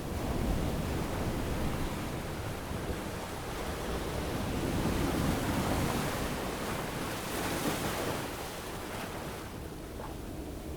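Ocean waves washing onto a beach: surf that swells in about a second in, stays full with a brighter hissing peak past the middle, then eases as the wave draws back.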